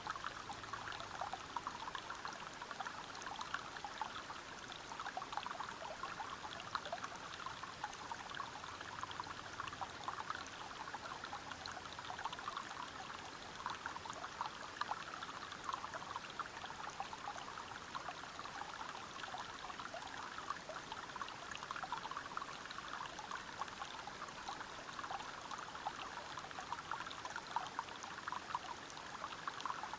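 Water of a small forest waterfall or stream flowing and splashing over rocks: a steady, even rush dotted with many small splashes and trickles.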